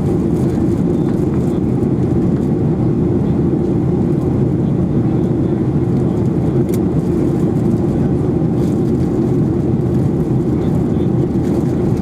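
Steady low roar of a Boeing 737-800's CFM56-7B jet engines and airflow, holding an even level with no change in pitch.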